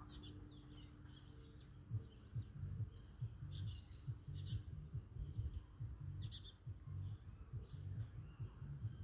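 Small birds chirping repeatedly, with a low, irregular thumping underneath from about two seconds in.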